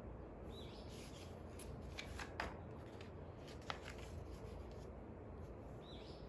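Paper rustling with a few sharp clicks in the middle, the two loudest about a second and a half apart, over quiet room tone; a faint bird chirp sounds once near the start and once near the end.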